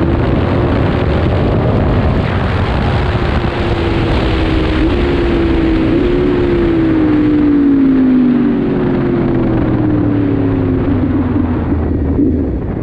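Yamaha MT-10's crossplane inline-four engine heard from the rider's seat under wind rush, its note sliding steadily lower as the bike slows. The pitch jumps up briefly twice about five and six seconds in.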